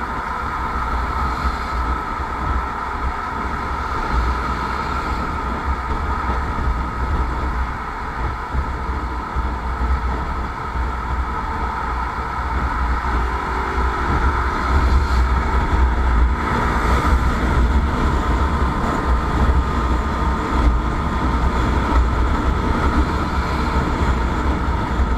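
Motorcycle riding at a steady pace: the engine runs continuously under heavy wind rumble on the microphone, getting a little louder about halfway through.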